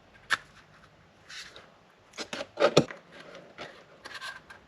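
LS roller lifters being pushed into a plastic lifter tray: a string of sharp clicks and rubbing, metal on plastic, with the loudest cluster of clicks a little under three seconds in.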